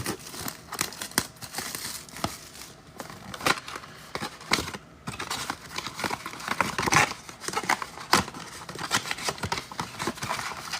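Trading-card blaster box being torn open by hand: plastic wrap crinkling, cardboard tearing and foil packs rustling, with many sharp irregular crackles.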